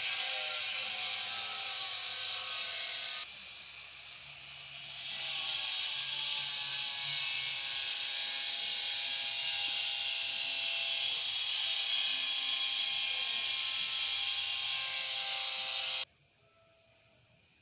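Cave swiftlets (Collocalia linchi) giving a dense, rapid, buzzy twittering. It drops off about three seconds in, builds back up a couple of seconds later, and stops abruptly near the end.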